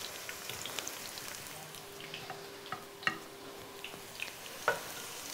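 Eggplant slices frying in olive oil in a pan: a faint steady sizzle with scattered pops, and a few sharp clicks, the loudest about three seconds in and near the end.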